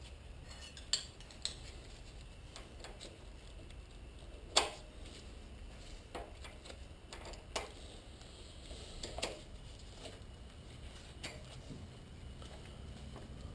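Scattered light metal clinks and taps from the lathe's steel change gears and bushing being handled, about six in all, the loudest about four and a half seconds in.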